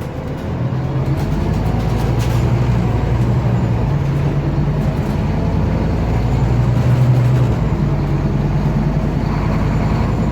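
Scania OmniCity city bus driving, heard from inside the cabin: a steady engine hum over road noise. About three-quarters of the way through, the engine note drops away.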